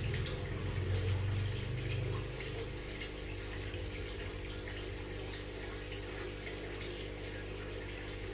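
Aquarium filter running: steady trickling and splashing of water with a low pump hum, the hum louder for the first two seconds or so.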